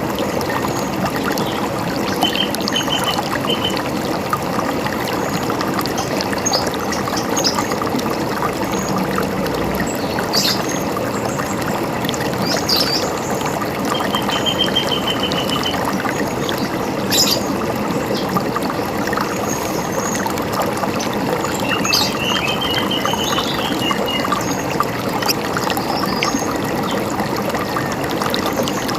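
River water running steadily, with birds calling over it: a few short trills and scattered chirps.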